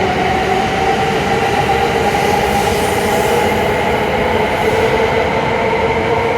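E7 series Shinkansen trainset pulling away, its traction motor whine rising slowly in pitch over the steady running noise of the train.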